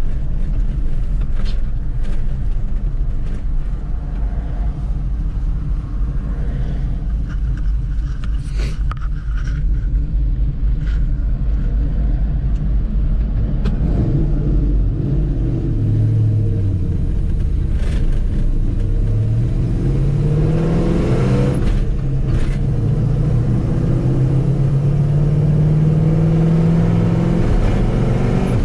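Cammed LS V8 with headers and Flowmaster dual exhaust, in a lifted 1985 Chevrolet K10, running at a steady low rumble for about the first half, then pulling away: the engine note rises and falls as the truck gets moving, climbs again past the two-thirds mark, and holds steady near the end.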